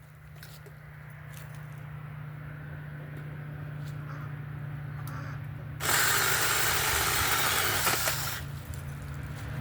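Mini chainsaw running with a steady hum, then about six seconds in the chain bites into a branch and cuts it for about two and a half seconds.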